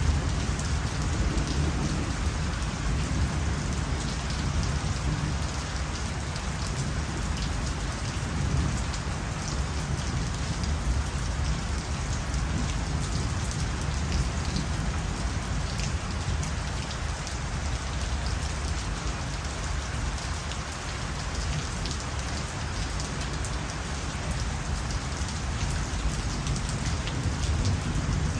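Steady night rain falling, with a dense patter of drops hitting surfaces over a low, even rumble.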